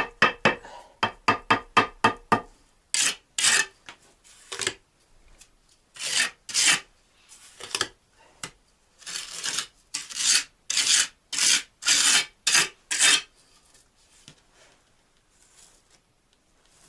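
Bricklayer's trowel scraping and spreading cement mortar on bricks in short strokes, quick at first, then at about two strokes a second, stopping about three seconds before the end.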